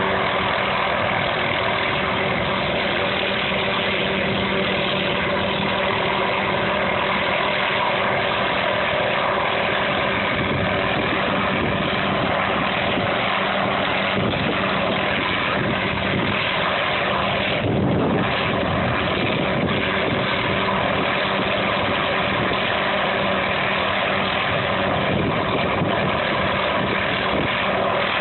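A large engine running steadily with a constant hum, and a brief louder rush about 18 seconds in.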